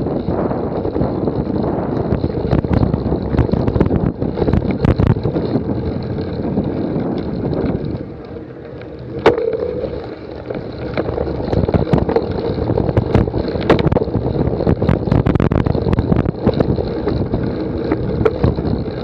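Wind buffeting the microphone over constant rattling and clattering knocks, as of a cyclocross bike ridden over rough ground. It goes quieter for a couple of seconds about halfway through, with one sharp click.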